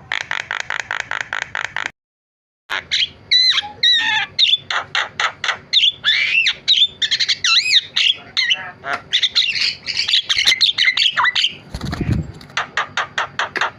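Javan myna (jalak kebo) singing a loud, chattering song of fast repeated notes mixed with whistles and rising and falling squeaks. The sound cuts out for a moment about two seconds in, and there is a brief low thump near the end.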